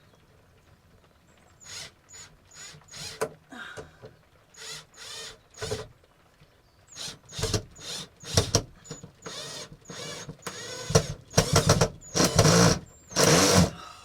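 Electric screwdriver driving screws into a shed panel in a series of short trigger bursts, starting about two seconds in, with longer, louder runs near the end.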